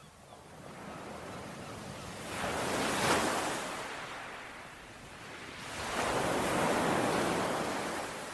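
Ocean surf: two waves break and wash on a shore, each a swell of hiss that rises and fades, the first peaking about three seconds in, the second a little longer near the end.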